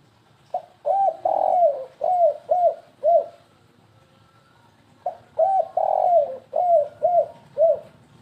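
Spotted dove (tekukur) cooing twice in the stuttering 'kuk-3' style: each phrase is a quick run of short coos with one longer drawn-out coo near the start.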